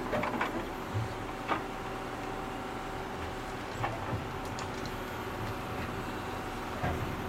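Small electric motors of a radio-controlled model machine running with a steady whine, with a few sharp clicks and knocks at about one, one and a half and four seconds in.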